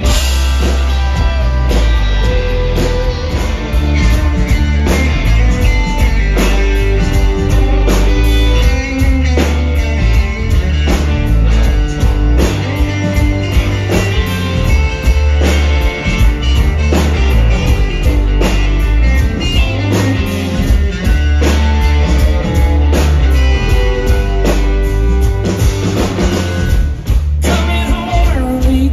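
Live rock band playing: guitars over bass and a steady drum-kit beat.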